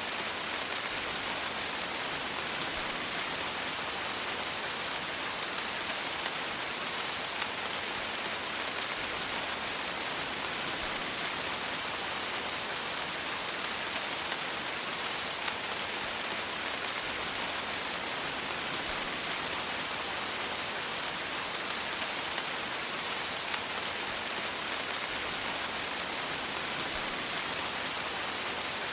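Steady rain falling, a dense even hiss of raindrops on a surface with no let-up.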